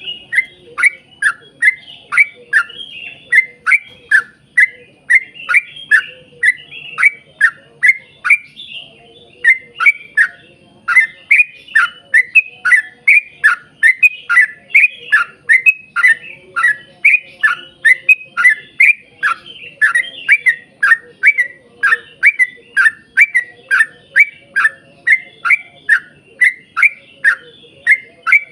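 Yellow-vented bulbul (trucukan) singing a long unbroken run of short whistled notes, each sliding downward, about two a second.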